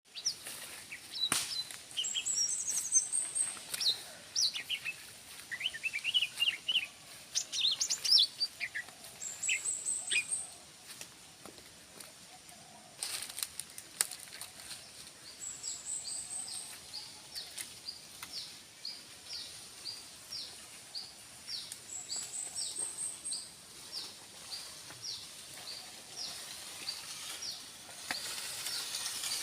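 Cucak ijo (green leafbird) singing vigorously. A varied run of chirps and warbled phrases through the first ten seconds, then a steady series of short repeated notes, about one and a half a second. A high, rapid trill comes back every six seconds or so, and a few sharp knocks sound near the start and about halfway through.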